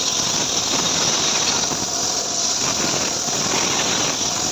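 Homemade engine-driven srekel sawmill running steadily.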